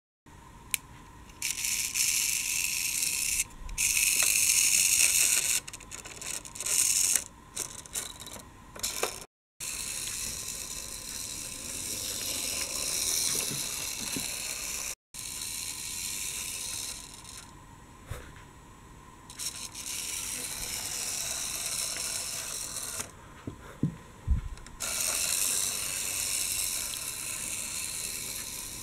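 Plastic gear mechanism of a toy vehicle whirring in stretches of a few seconds as it runs, starting and stopping repeatedly and cutting off abruptly a few times.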